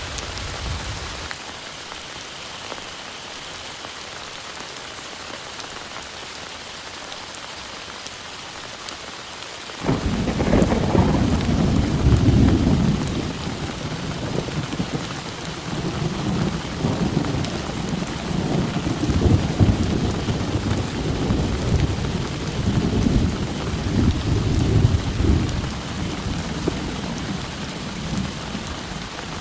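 Heavy rain falling steadily. About ten seconds in, thunder breaks suddenly, loud and low, and rolls on in waves for about fifteen seconds before dying back to the rain.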